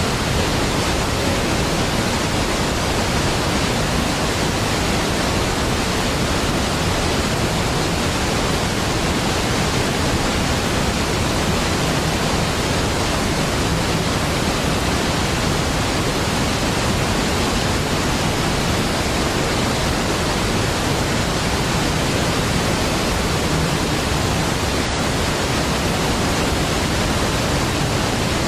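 A large waterfall's falling water, a deep, steady rush of noise that holds an even level throughout.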